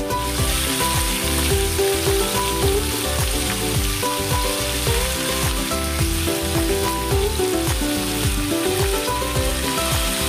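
Pieces of raw chicken sizzling as they fry in hot oil in a nonstick frying pan, a steady high hiss, over background music with a steady beat.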